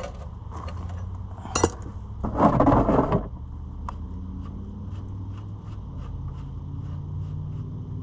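Metal clinks and a brief scraping rush about two and a half seconds in, with a few light ticks afterwards, over a steady low hum.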